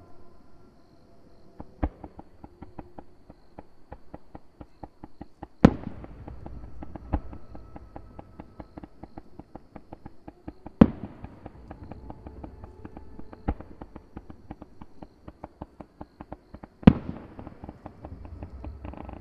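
Fireworks display: a steady rapid crackle of small pops, with three loud shell bursts about five seconds apart and a few lesser bangs between them.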